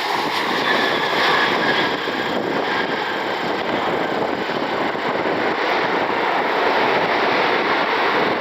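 Jet airliner engines running steadily, with a faint whine that slowly drops in pitch over the first few seconds.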